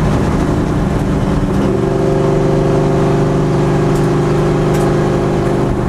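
Straight-piped exhaust of a 1989 Fox Body Mustang race car, heard from inside the cabin while driving. It is loud, and the engine note holds steady at one speed from about two seconds in.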